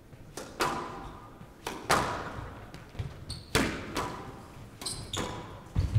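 A squash rally: the ball struck hard by rackets and smacking off the court walls, about ten sharp impacts at an irregular pace, each ringing briefly in the glass-court hall, with a couple of short high shoe squeaks on the floor.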